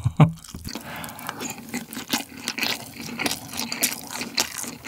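Close-miked wet chewing of a mouthful of Spam and rice in sticky sauce: a steady run of small smacking, squelching mouth clicks, after a brief low thump right at the start.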